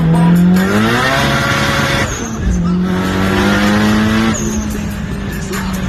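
Turbocharged car accelerating hard through two gears: the engine's pitch climbs, breaks at a shift about two seconds in, climbs again, then drops off near the end, with a short high chirp at each break.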